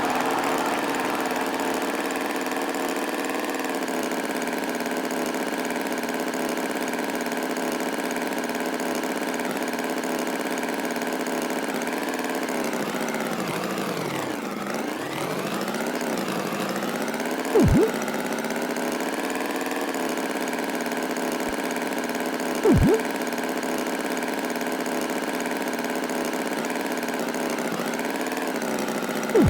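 Tractor engine sound effect running steadily, its pitch sagging and picking back up once around the middle. Three short, louder blips break in over the second half, about five seconds apart.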